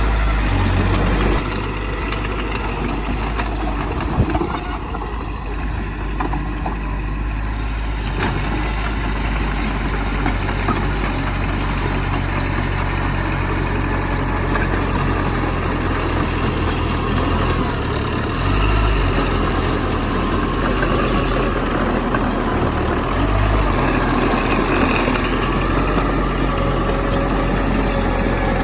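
Heavy diesel engine of earthmoving machinery running steadily, its note and load shifting a few times, with a single sharp knock about four seconds in.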